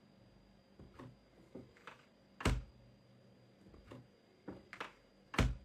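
A series of irregular knocks and thuds, about eight in all, with two much louder thumps about two and a half seconds in and near the end.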